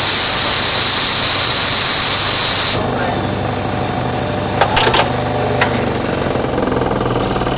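Machine tool running with a loud, high-pitched whine that cuts off suddenly about three seconds in, leaving a quieter steady motor hum with a few sharp clicks.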